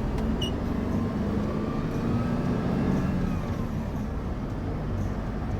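Delivery truck's engine running steadily with road noise, heard from inside the cab while driving. There is a brief high tick about half a second in.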